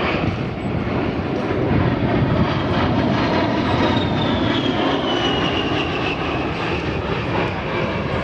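A-10 Thunderbolt II jet passing in a flyby, its twin TF34 turbofan engines making a loud, steady roar, with a high whine that falls in pitch as it goes by.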